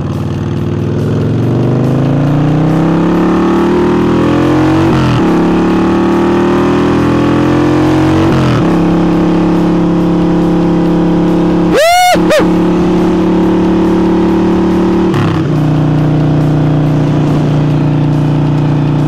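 Harley-Davidson Forty-Eight's air-cooled V-twin, breathing through a new air intake, accelerating through the gears: the revs climb and drop at upshifts about five and eight seconds in, then hold steady at speed, with another shift near fifteen seconds. A short swooping tone sounds about twelve seconds in.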